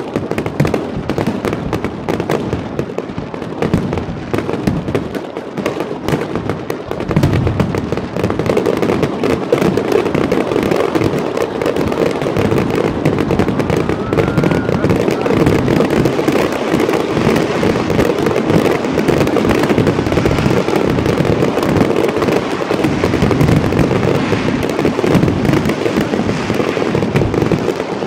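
Fireworks display: a dense, continuous barrage of shell bursts and crackling, growing fuller and louder about seven seconds in.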